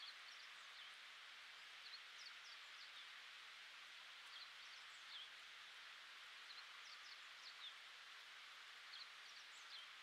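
Faint woodland ambience: a steady hiss with small birds' short, high chirps, coming in little groups of two or three every second or two.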